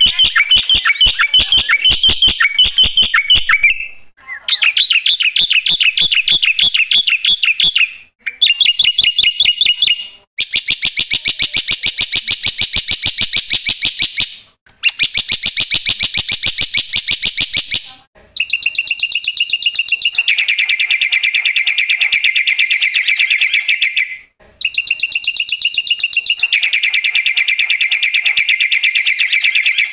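Black-winged myna (jalak putih) singing loudly in full song: long phrases of rapid, repeated shrill notes, broken by brief pauses every few seconds.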